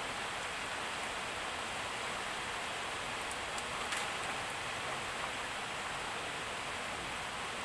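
Steady heavy rain falling, an even hiss, with a few faint ticks about halfway through.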